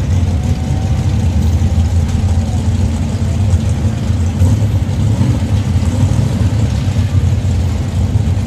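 Car engine idling close by, a steady low rumble that holds even throughout.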